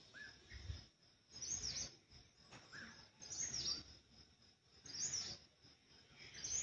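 Birds calling: a high, falling call repeated four times, about every one and a half to two seconds, with shorter, lower chirps in between, over a faint steady high hum.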